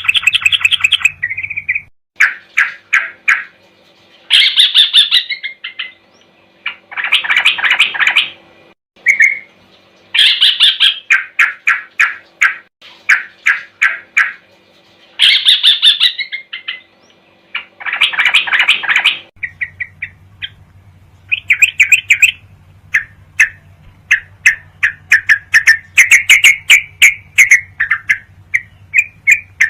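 Recorded song of yellow-vented bulbuls (trucukan): loud bursts of rapid chattering phrases about every two to three seconds, then, about two-thirds of the way through, a denser run of short chattering notes over a low hum, as a new recording is spliced in. It is a masteran track, bulbul song looped for training caged birds.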